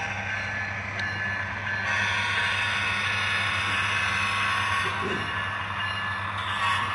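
A train running by: a steady rumble with a constant low hum and several steady high-pitched tones over it.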